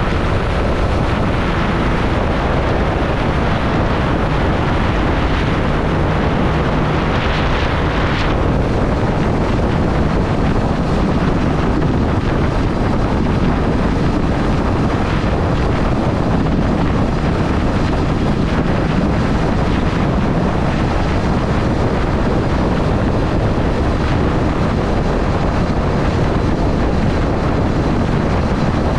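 Triumph Street Triple motorcycle's inline three-cylinder engine running steadily while riding, under heavy wind rush on the microphone. A brief louder rush of hiss comes about seven seconds in.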